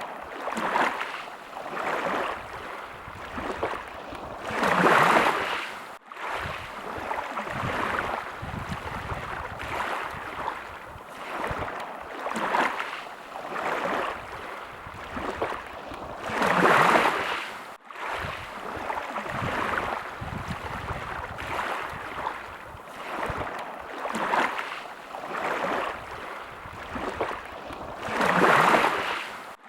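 Sea waves washing in and ebbing, a small wash every couple of seconds and a bigger wave about every twelve seconds. The sound cuts out for an instant twice.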